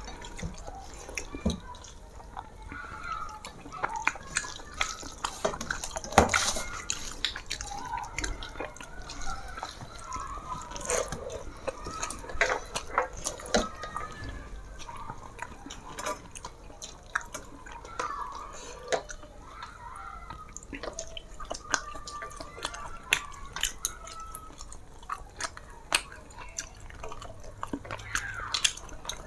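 Close-up eating sounds: wet chewing and mouth smacks with many small clicks and taps, going on throughout.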